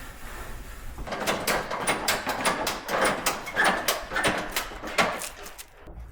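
A quick, irregular run of clicks and knocks from things being handled, about a second in to near the end, over a low steady hum.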